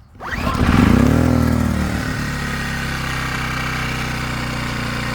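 Harbor Freight Predator portable generator's small engine starting on the first pull: it catches, revs up for about half a second, falls back and settles into steady running at its governed speed within about two seconds.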